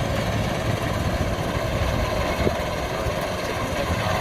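Kubota DC93 rice combine harvester's diesel engine running steadily under working load, a continuous low rumble.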